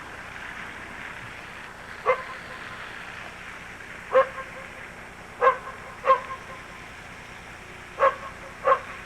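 A dog barking, six single barks spaced a second or two apart, some coming in quick pairs.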